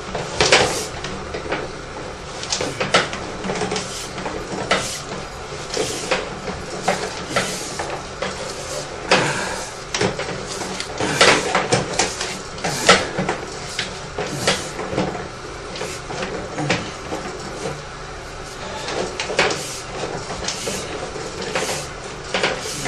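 Irregular clicks and knocks, a few a second, over a steady hiss: sewer inspection gear being handled as the camera push cable is fed down the drain line.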